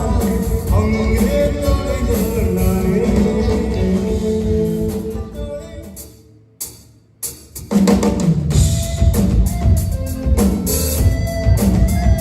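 A live band playing, with a drum kit prominent. About halfway through the music fades out to a short gap, then another passage starts with strong drum hits.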